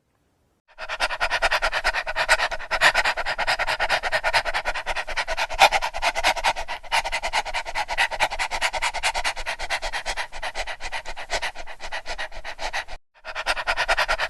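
A dog panting rapidly and steadily, breaking off briefly near the end before resuming.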